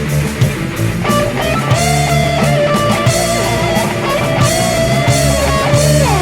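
Electric guitar solo in a heavy metal song with the full band playing: long held, bent notes, with a steep slide down in pitch near the end.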